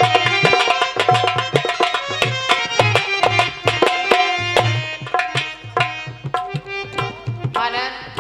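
Instrumental interlude of Dhola folk music: a hand drum plays a quick steady rhythm under sustained melodic notes.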